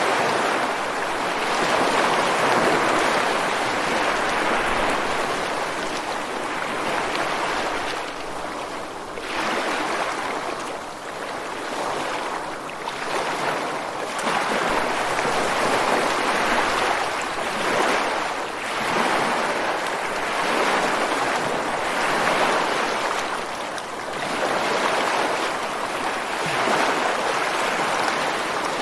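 Ocean waves breaking on a beach and washing against rocks, a continuous rush of surf that swells and eases with each wave every few seconds.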